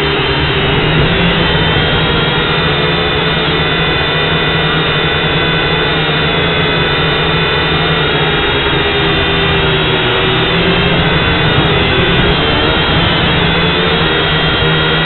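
Syma X5C quadcopter's small brushed motors and propellers whining and buzzing steadily. Several tones drift slowly up and down as the motor speeds change, over a rushing noise.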